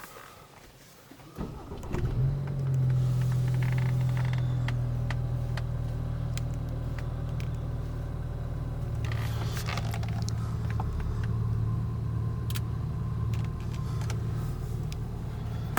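BMW GT's engine starting about two seconds in, then idling steadily.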